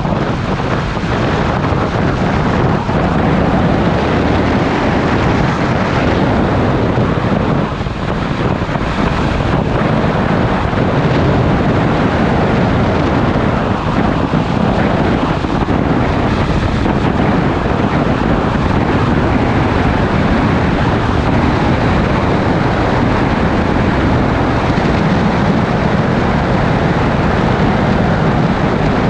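Motorcycle riding at steady speed: heavy wind rush over the helmet or camera microphone, with the bike's engine running underneath.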